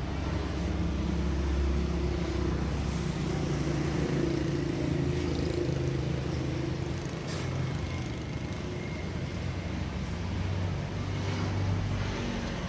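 Road traffic: vehicle engines running and passing close by, a low hum that swells and eases, with a few faint clicks.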